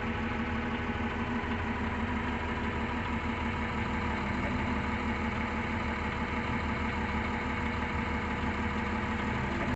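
A heavy diesel engine idling steadily with an even hum.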